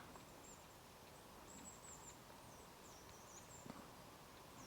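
Near silence of a forest with faint, very high-pitched bird chirps and twitters scattered throughout, and a couple of soft clicks.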